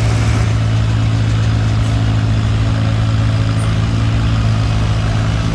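Antique tractor engine running at a steady speed, a constant low hum that holds one pitch without revving.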